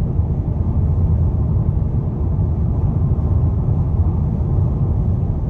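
Steady low rumble of a car on the move, heard from inside: road and engine noise.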